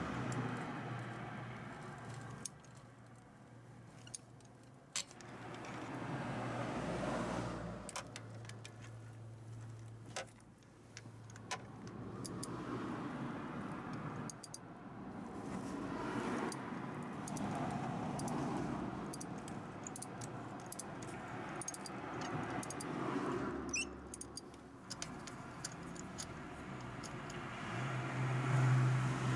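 Scattered sharp metallic clicks and clinks, like hand tools and sockets being handled during spark plug work, over the sound of cars passing by that swells and fades every few seconds.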